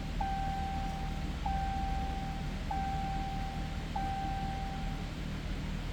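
2019 Dodge Ram's dashboard warning chime sounding four times, each a steady tone of about a second, repeating about every 1.25 s and stopping near the end, over a low steady hum. It sounds with the ignition on after a failed start on a weak battery.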